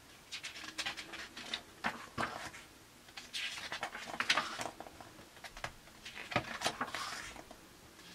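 Paper pages of a hardback book being turned and handled: light rustles and small taps, with two longer paper swishes about three and a half and six and a half seconds in.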